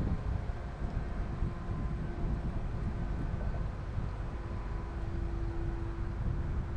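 Wind buffeting the microphone, with a steady mechanical hum holding one even pitch underneath.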